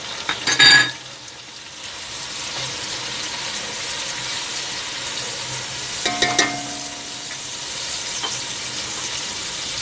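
Chopped tomatoes and green chillies sizzling in hot oil in an aluminium pot as they are stirred, the sizzle growing louder about two seconds in. A ringing metal clink sounds about half a second in, and another about six seconds in.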